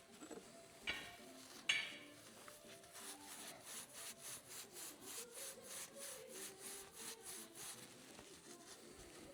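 Hand work on a coilover's top mount while a new bearing is fitted. Two sharp knocks come first, the second louder and ringing briefly. Then comes a steady run of quick rubbing strokes, about four a second, for several seconds.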